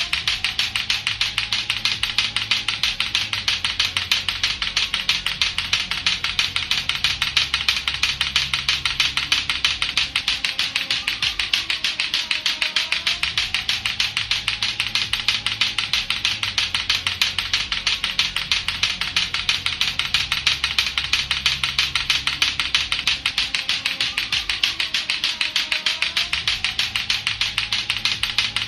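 Lato-lato clacker toy, two hard plastic balls on a string knocking together in a fast, even run of sharp clacks. A faint backing track with a looping bass line plays underneath.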